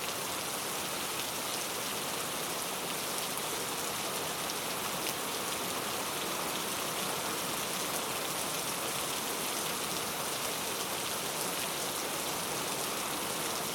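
Steady rainfall: an even hiss of many small drops striking, holding at one level throughout.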